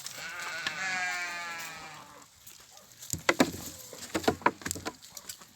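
Boer goat bleating: one long, wavering call lasting about two seconds. It is followed, about three seconds in, by a run of sharp knocks.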